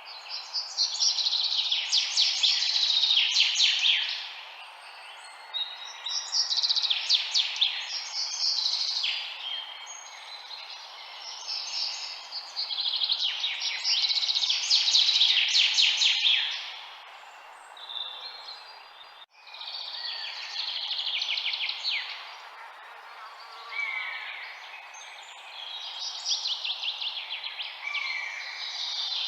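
Songbird singing: about five bursts of rapid, high trilled notes, each a few seconds long with short pauses between, over a steady background hiss. There is a brief dropout just past the middle.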